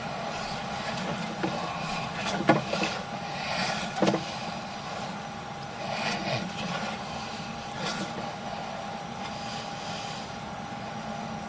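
Sewer inspection camera's push rod being fed through a cast iron drain line, with scattered knocks and scrapes, over a steady hum.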